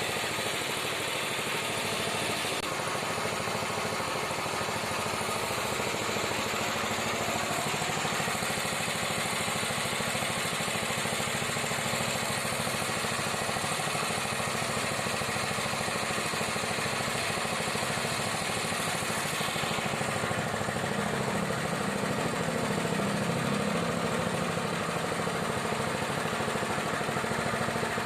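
Small petrol engine of a cassava slicing machine running steadily, like a lawn mower engine.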